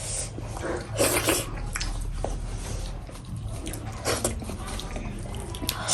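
Close-up eating sounds: chewing and mouth smacking, with scattered small clicks and a couple of short noisy bursts, about a second in and about four seconds in.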